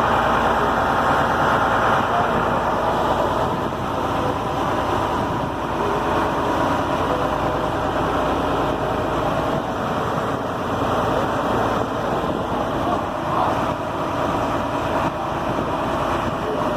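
Fishing boat's engine running steadily under way, an even drone mixed with wash and wind noise.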